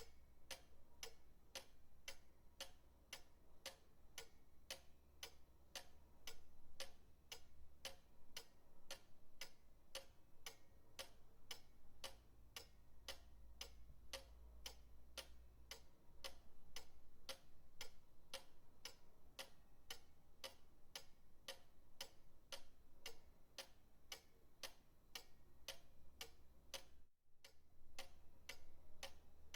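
Pendulum clock ticking steadily, about two ticks a second. The ticking cuts out for an instant once near the end.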